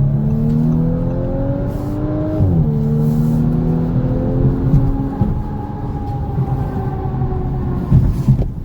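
2019 Audi S5 Sportback's turbocharged V6 accelerating hard, the engine note rising, dropping quickly at an upshift about two and a half seconds in, then climbing again. After about five seconds the engine fades into steady road and wind rumble.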